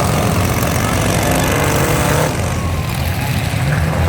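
Demolition derby truck engines running and revving loudly.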